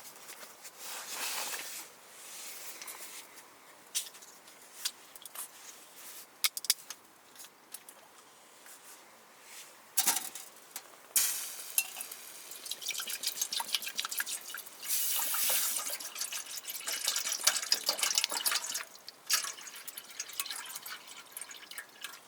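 Liquid dripping and trickling, with irregular sharp clicks and longer stretches of hiss in the second half.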